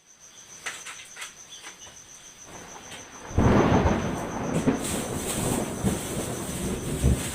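Thunder rumbling, setting in suddenly about three seconds in and going on loudly, over a steady high insect trill.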